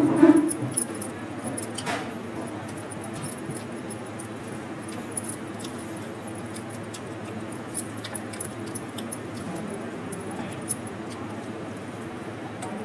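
Quiet eating sounds: sporadic small clicks and light metallic clinks over a steady low hum.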